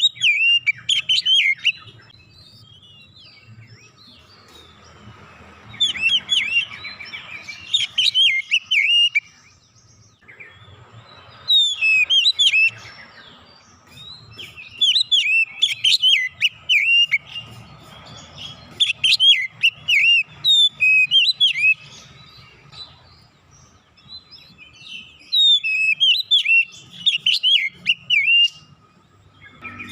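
Oriental magpie-robin (kacer) singing in repeated bouts of rapid, varied whistled phrases, each a second or three long with short pauses between. The song is packed with learned fill phrases ('isian') and delivered insistently.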